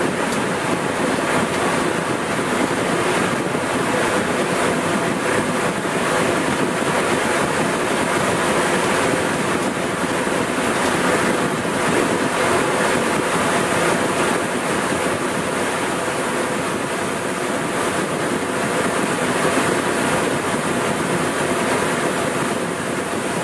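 Blendtec Total Blender's motor running at speed: a loud, steady whirring noise.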